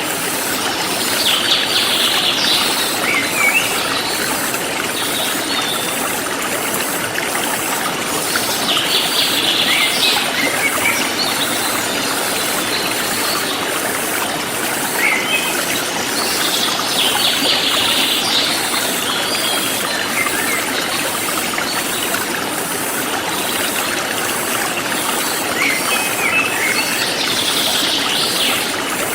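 Forest stream flowing steadily, with a bird singing a short phrase of chirps about every eight seconds over it. A fast, even, high-pitched insect pulsing runs underneath.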